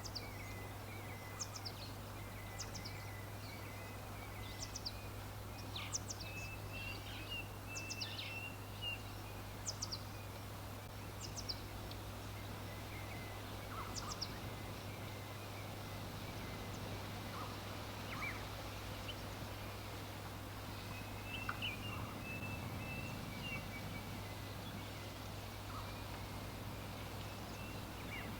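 Wild birds chirping: many short, sharp high chirps every second or so, over a continuous lower trill and a steady low hum.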